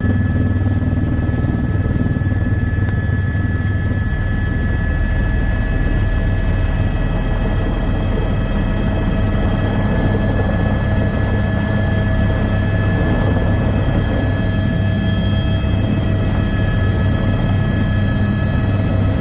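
Helicopter running steadily: a constant low rotor and engine drone with several steady high whining tones from the turbine.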